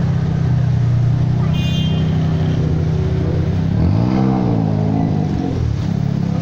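Mazda RX-7 (FD) rotary engine running at low revs as the car rolls slowly past and pulls away, with one short rev that rises and falls about four seconds in.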